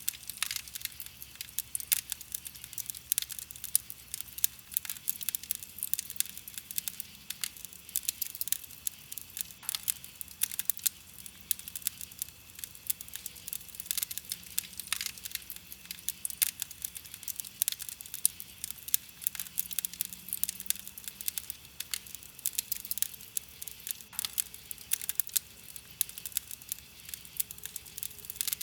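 Wood campfire crackling: a steady, irregular stream of small sharp pops and snaps, with a few louder snaps scattered through.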